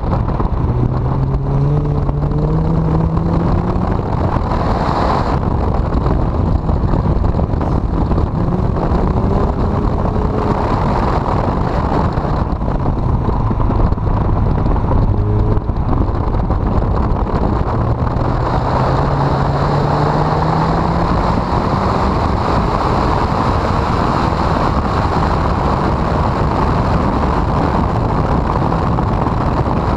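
Honda CRX engine pulling hard on a race track, its note rising through the revs several times as the car accelerates, the longest climb about two-thirds of the way in, all under a heavy roar of wind on the microphone.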